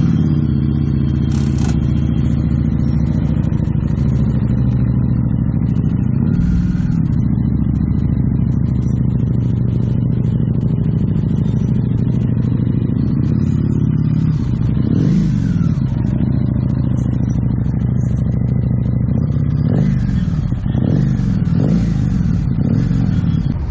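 Harley-Davidson V-twin running through a Screaming Eagle exhaust, idling with a deep, even beat. It is revved briefly about six seconds in and again about fifteen seconds in, then blipped a few times near the end.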